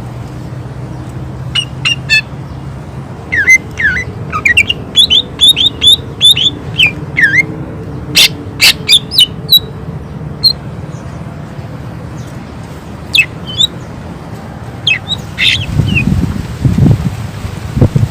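Cucak ijo (green leafbird) singing in rapid volleys of sharp, down-slurred whistled notes, several a second, in clusters with short pauses between. A steady low hum runs underneath.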